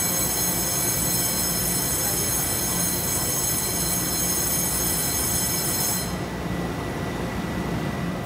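Train at an underground station platform: a steady rumble with a high whine of many tones that stops abruptly about six seconds in, leaving the lower rumble.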